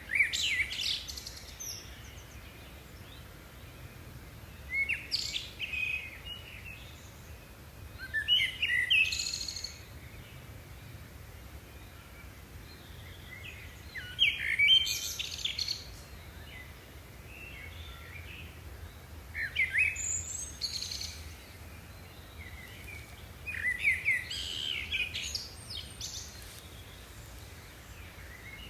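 A songbird singing short, repeated phrases of high chirping notes, about seven phrases each a second or so long, every four to six seconds.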